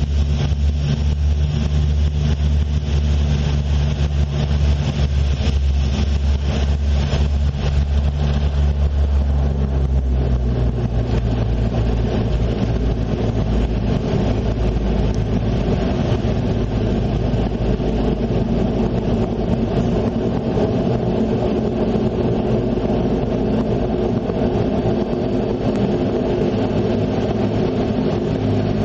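Turboprop airliner cabin noise on landing: a steady low propeller drone. About ten seconds in, the tone changes and a rougher low rumble takes over as the aircraft touches down and slows on the runway.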